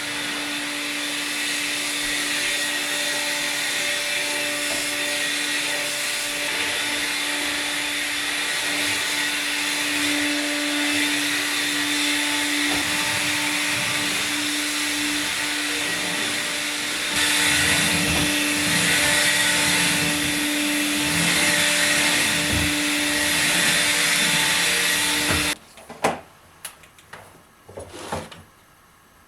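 Vacuum cleaner running steadily, its motor giving a constant hum under a broad rushing noise. It gets louder about two-thirds of the way through, then is switched off near the end, followed by a few light knocks and clicks.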